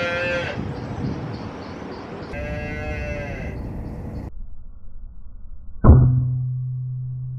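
Cattle mooing, two long calls in the first few seconds. About six seconds in comes a single sharp air rifle shot at a pest bird, followed by a low steady hum.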